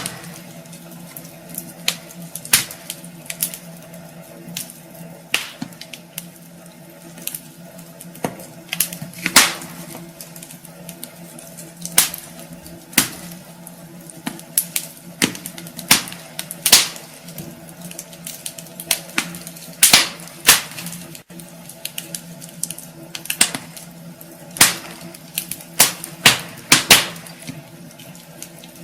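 Wood fire burning in a fireplace, the logs crackling with irregular sharp pops over a low steady background.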